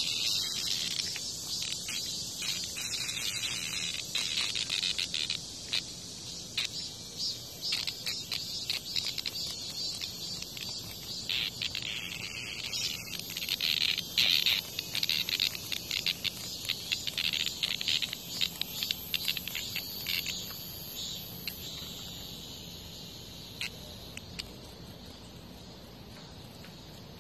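Cicada giving harsh, broken distress buzzes in irregular bursts while a hornet attacks it, loudest in the middle and trailing off near the end.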